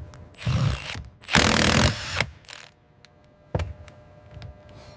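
Workshop tool noise: a short hiss, then a louder one lasting under a second about a second and a half in, followed by a few sharp knocks.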